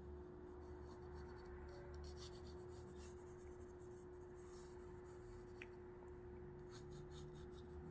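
Faint scratching of a pencil sketching on a drawing board, in short irregular strokes, over a steady low hum.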